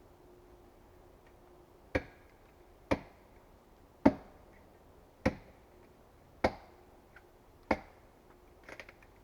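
Axe chopping wood: six sharp strikes about a second apart, then a brief clatter of lighter knocks near the end.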